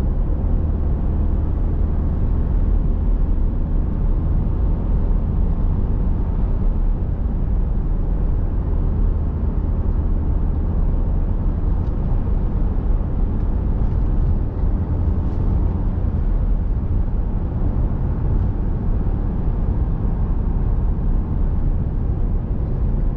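Steady low rumble of engine and tyre noise inside a moving vehicle's cabin at road speed.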